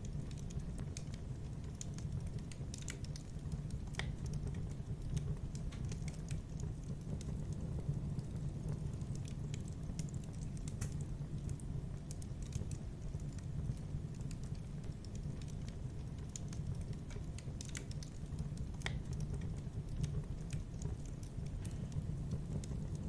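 Fireplace fire crackling: irregular sharp pops and snaps, a few at a time, over a steady low rumble.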